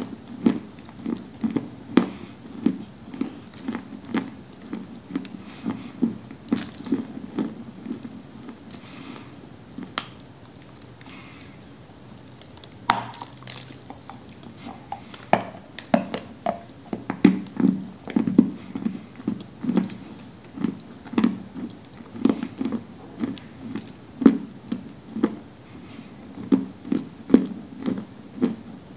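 Close-up chewing of a mouthful of dry, crumbly edible clay, a steady rhythm of about two chews a second with sharp little crunches and clicks. The chewing slows to a quieter spell about halfway, then resumes with a few crisper crunches.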